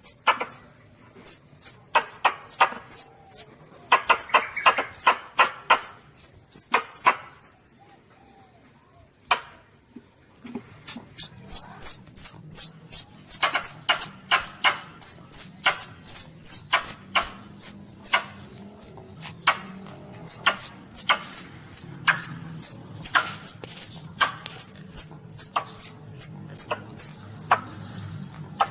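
Baby Asian palm civet (luwak) calling: a rapid run of short, high, falling squeaks, about four a second. The calls stop for about three seconds partway through, then resume over a low steady hum.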